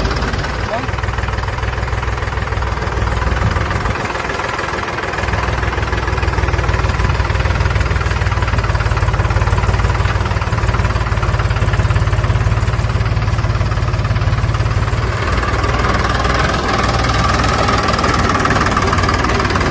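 Mini tractor engine running steadily at idle.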